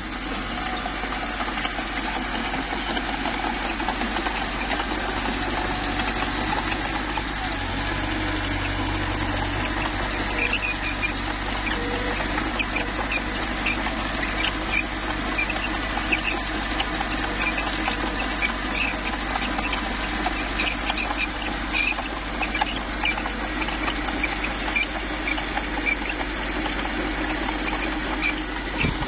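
Small crawler bulldozer's diesel engine running steadily under work. From about ten seconds in, its steel tracks add frequent short high squeaks and clinks.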